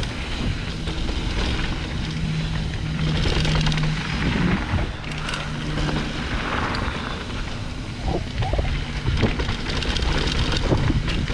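Wind rumbling over a moving camera's microphone while riding down a dirt trail, with scattered knocks and rattles from the rough ground.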